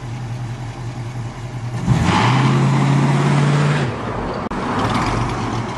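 Car engine running steadily, then accelerating hard about two seconds in, held at high revs for about two seconds, then easing off.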